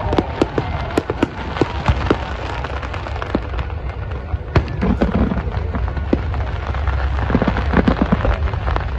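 Fireworks going off: many sharp bangs and crackles in quick succession over a steady low rumble, thinning out after about four seconds.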